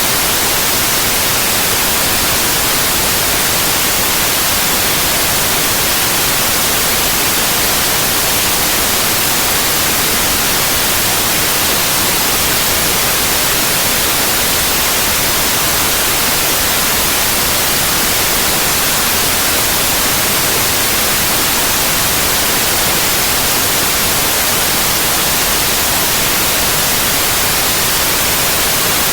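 Steady synthetic white noise: an even, unchanging hiss across the whole range, brightest in the highs.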